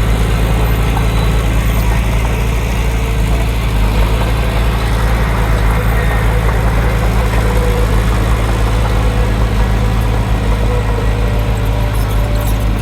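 Diesel engine of heavy earthmoving machinery running steadily with a deep, even drone.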